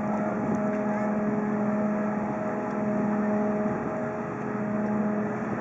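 A steady engine drone with a low hum and a higher steady tone over it; the higher tone drops out about five seconds in, and a slightly lower tone carries on.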